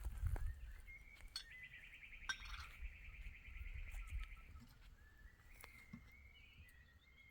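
A small bird singing: a rapid trill lasting about three seconds, followed by a few shorter, fainter notes.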